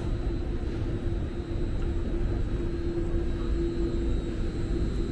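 Steady low rumble and hum inside a Muni Metro light rail car, with a constant mid-pitched tone over it.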